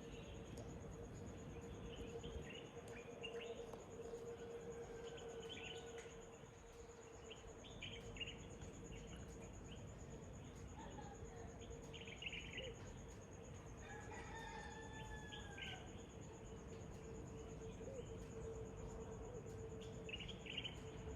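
Faint outdoor birdsong of short, scattered chirps, with a rooster crowing once about fourteen seconds in, over a steady faint hum.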